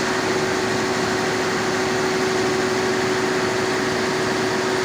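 Diesel engine running at a steady speed: a loud, even drone with one steady held tone.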